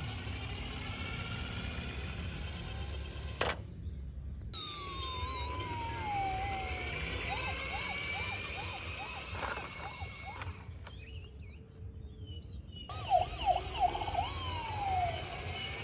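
Siren-like wailing tones sliding up and down, in several overlapping layers over a steady low rumble, cut off abruptly twice and ending with a few louder warbling sweeps.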